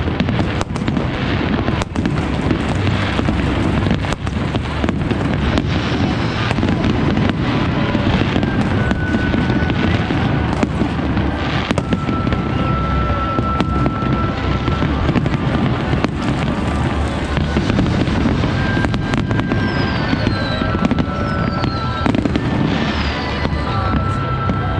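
Fireworks display: aerial shells bursting in rapid succession, a continuous wash of bangs and crackling.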